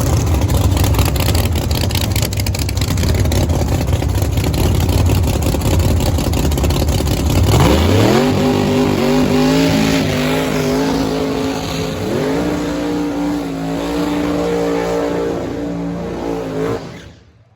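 No-prep drag racing cars: a loud, rough engine rumble at the start line, then a launch about seven and a half seconds in, with the engine note rising sharply and holding at high revs down the track. The pitch climbs again about twelve seconds in, and the sound cuts off suddenly near the end.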